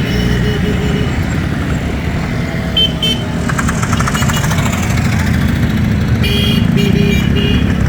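Motorcycle engines running together in a group, with vehicle horns tooting briefly about three seconds in and again in several short blasts near the end.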